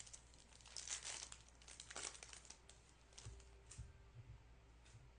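Faint crinkling and tearing of a trading-card pack wrapper being opened and handled, in several short rustles.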